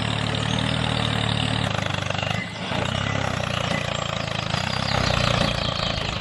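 Engine idling steadily with a fine, fast putter, dipping briefly about two and a half seconds in.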